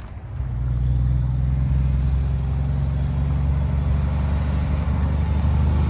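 Heavy vehicle engine running with a steady low rumble, swelling in the first half second and then holding even.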